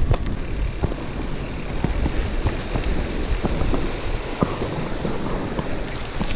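Wind rushing over the microphone during a bicycle ride, with tyre noise on a rough track and scattered clicks and rattles.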